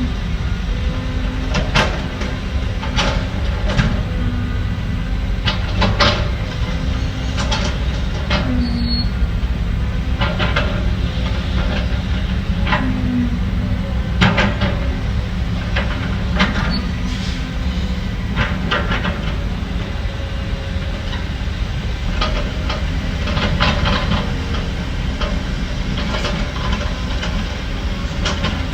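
Heavy diesel earthmoving machinery running with a steady low rumble, with frequent sharp metallic clanks and knocks scattered irregularly throughout.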